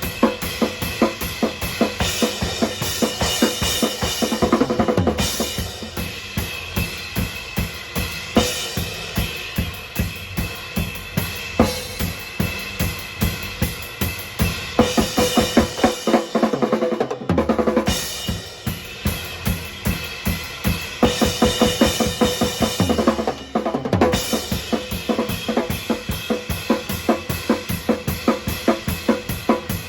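A drum kit played live and unprocessed: kick drum and snare keep a steady groove under cymbals. Faster fills come around four seconds in, again about sixteen seconds in and about twenty-three seconds in, where the kick drops out for a moment.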